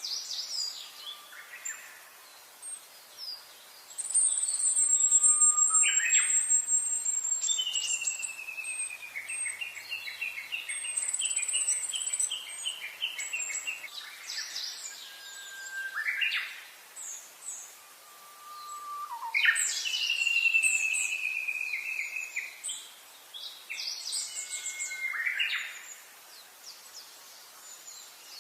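Songbirds singing, more than one at once: a long thin high whistle held for a few seconds, a run of quick repeated notes that steps down in pitch, and short slurred notes that sweep up, with gaps between phrases.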